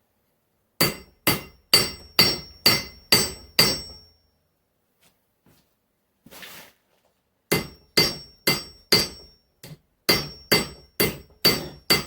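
Hand hammer striking hot spring steel on an anvil, forging the axe's steel edge piece, roughly two blows a second, each with a bright metallic ring. Two runs of blows, about seven and then about ten, separated by a pause of several seconds with one brief soft scraping hiss.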